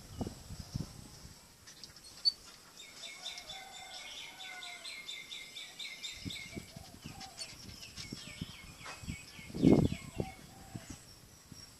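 A bird's rapid trill of evenly repeated high notes in two long runs, over scattered low knocks, with a short loud low-pitched sound near the end.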